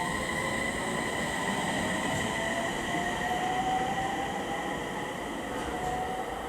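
Electric train's VVVF inverter whine while accelerating: a steady high tone with a second tone that rises slowly in pitch as the train picks up speed.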